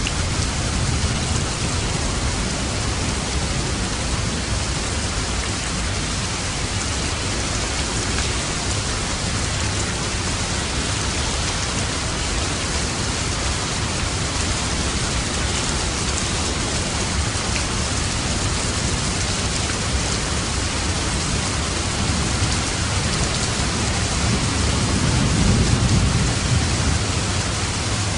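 Steady rain, with a low roll of thunder that swells and fades near the end.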